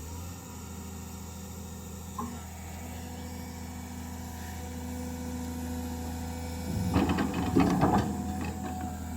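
An engine runs steadily with a low, even hum. About seven seconds in, a cluster of sharp clanks and knocks lasts roughly a second.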